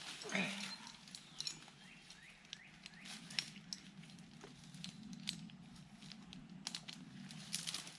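Faint scattered clinks, clicks and rustles of a chain being handled and wrapped around a fallen tree's root ball, with a brief falling squeak just after the start.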